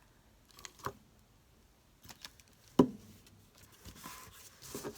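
Desk-top crafting sounds: a few light clicks and knocks, the loudest about halfway through, then a soft rubbing as glue is spread on a paper envelope to stick it shut.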